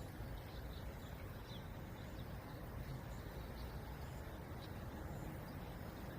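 Wind buffeting the microphone in a steady low rumble, with a few faint, short bird chirps scattered through it.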